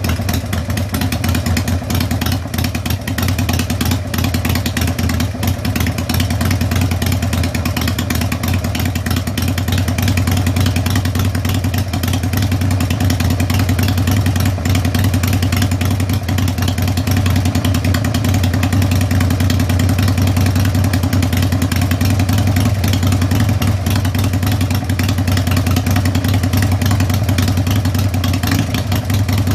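Harley-Davidson Sportster V-twin engine, freshly bored from 883 to 1200 cc with Wiseco pistons, running steadily at idle on its first start after the rebuild, with a low, punchy exhaust note. It gets a little louder about ten seconds in.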